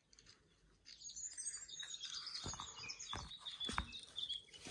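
Morning songbirds singing, many short high chirps overlapping from about a second in. Three dull thumps fall in the middle.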